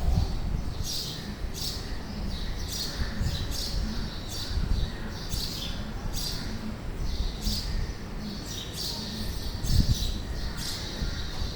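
Birds calling in a rainforest: short high chirps repeating evenly, about three every two seconds, over a steady low rumble.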